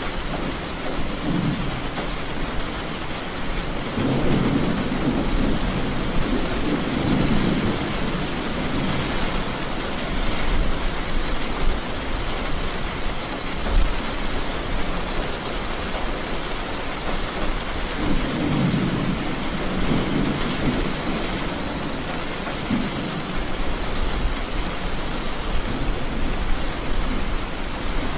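Steady rain falling, with two low rolls of thunder: one about four seconds in that lasts several seconds, and a second one about eighteen seconds in.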